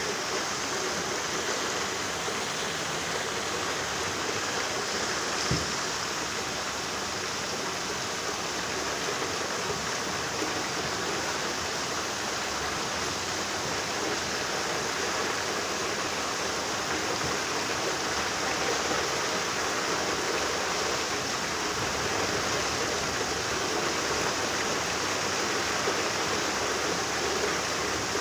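Steady rain falling, an even hiss with no let-up, with one faint tap about five seconds in.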